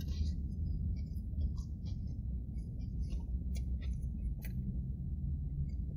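A bite into a crisp-coated fried chicken sandwich followed by chewing: a cluster of crunchy crackles at the start, then scattered small crackles and mouth clicks, over a steady low rumble.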